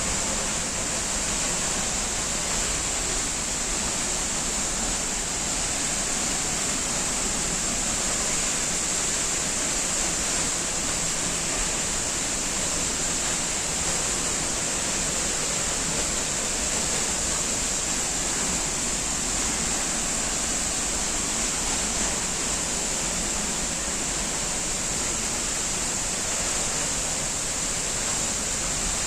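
Waterfall: falling water rushing steadily, an even hiss with no breaks or changes.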